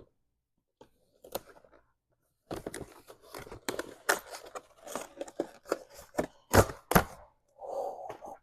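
Product packaging being torn and pulled open by hand: after a quiet start with a few faint clicks, a stretch of crackling and tearing begins, with two sharp, louder snaps near the end.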